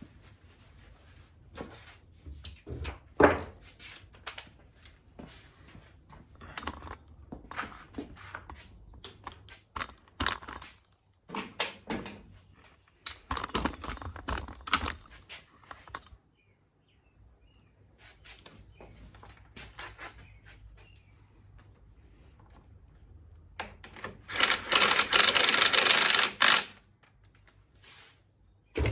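Knocks, clinks and rattles from metal tools and motorcycle fork parts being handled, the loudest knock about three seconds in. Near the end comes a loud, steady hiss lasting about three seconds.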